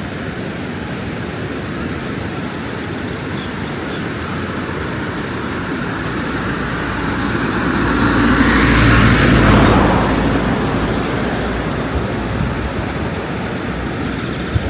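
A motor vehicle passes close by, swelling to its loudest about nine seconds in and fading, its pitch falling as it goes, over a steady rushing background.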